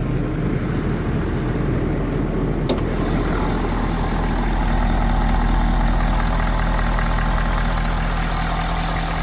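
Engine idling steadily. About three seconds in it grows a little fuller and louder and stays that way.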